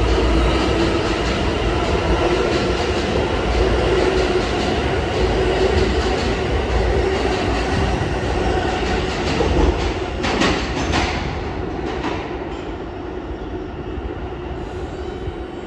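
R160 subway train running on the rails: a steady, loud rumble of wheels and motors. A few sharp clacks come about ten seconds in, after which the sound grows quieter.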